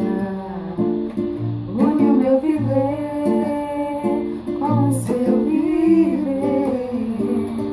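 Acoustic guitar strumming the song's closing chords, with a voice singing wordlessly over it.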